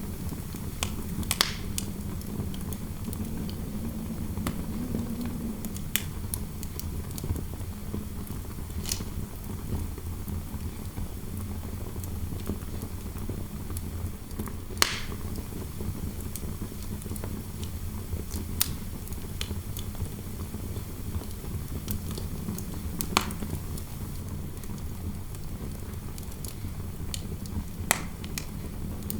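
Fireplace fire giving sharp, isolated pops every few seconds over a steady low rumble of wind noise, which wavers faintly in the first few seconds.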